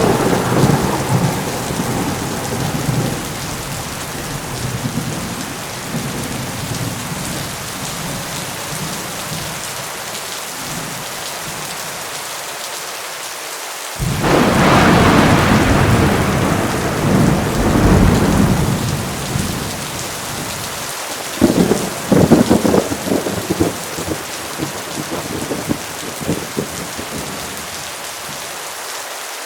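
Heavy rain pouring steadily through a thunderstorm, with rolling thunder. A rumble dies away in the first few seconds; about halfway a loud peal breaks in suddenly and rolls for several seconds, followed by a crackling run of sharper claps.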